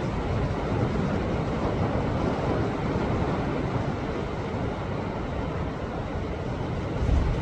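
Sea waves surging against a rocky shore: a steady rushing wash with a deep rumble, and a louder low thud near the end.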